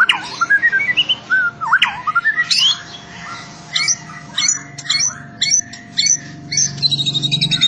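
White-rumped shama singing: whistled notes gliding up and down, then a run of sharp, short notes, and near the end a fast trill of rapid-fire notes.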